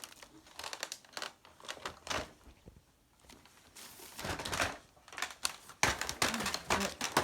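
Irregular clicks, taps and crinkling rustles of things being handled, with a louder cluster of clatter around four to six seconds in.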